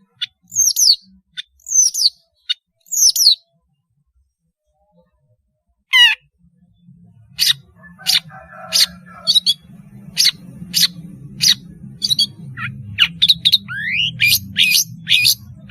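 Long-tailed shrike (pentet) singing: a few sharp downslurred calls, a pause of about two seconds, then a rising call and a fast run of short, sharp notes that come quicker toward the end. A low hum sits underneath from about halfway through.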